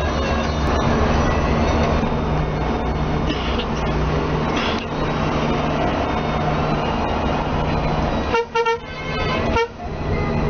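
Steady low drone of a moving Scania K360ib coach on the road. A vehicle horn gives a few short toots about eight and a half seconds in, then one more about a second later.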